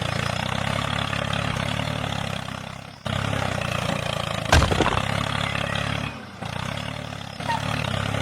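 Steady engine-like running sound with a low rumbling buzz, broken by abrupt cuts about three seconds in and again near six seconds, with a sharp click about four and a half seconds in.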